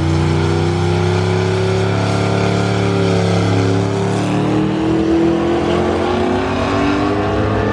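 Car engine under hard acceleration, its pitch holding steady and then dropping and climbing again about four seconds in, as with a gear change.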